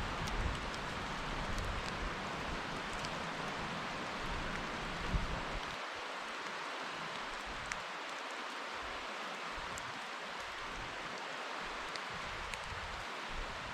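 Steady rain falling in woodland, an even hiss with scattered close drops ticking. A low rumble underneath fades out about halfway through.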